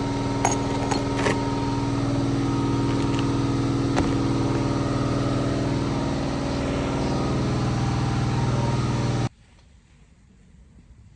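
A machine running steadily with a low hum, a few sharp clicks early on, then cutting off abruptly about nine seconds in.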